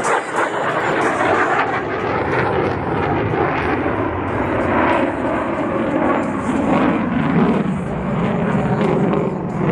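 Lockheed Martin F-35A Lightning II's Pratt & Whitney F135 turbofan in a demonstration pass, a loud continuous jet roar. The roar grows deeper in the last few seconds.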